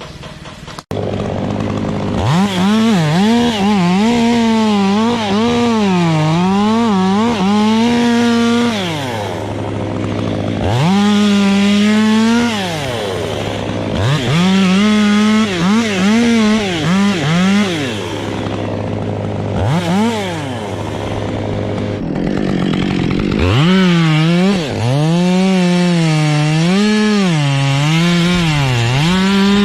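Chainsaw cutting wood, its engine pitch rising and sagging over and over under load. There are a few short drops toward idle between cuts.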